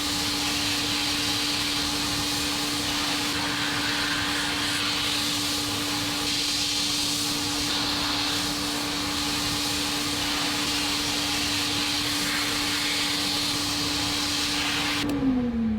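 Paint spray gun hissing steadily, with a steady motor hum under it that drops in pitch near the end as the motor winds down.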